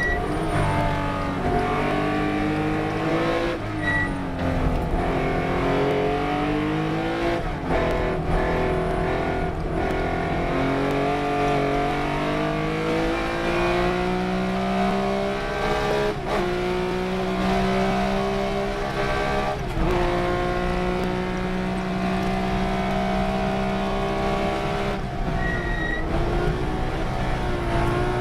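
Race car engine running hard throughout, its pitch climbing repeatedly and falling off sharply at each gear change or lift for a corner. Tyres squeal briefly a few times.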